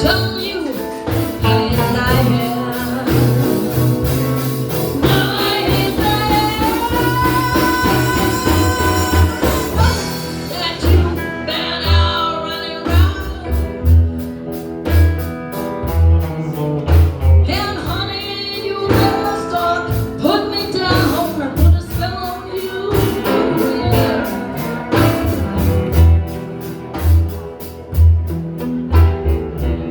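Live blues band playing a song, with a singer over a steady kick-drum beat.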